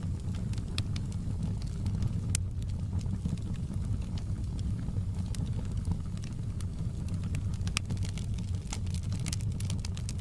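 Fire crackling: scattered sharp pops and snaps, with a quick run of them near the end, over a steady low rumble.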